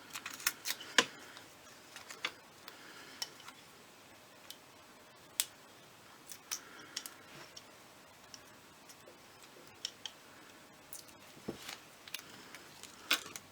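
Scattered light clicks and taps with faint rustling: paper card pieces being handled and the release-paper backing picked and peeled off foam adhesive pads with the fingernails.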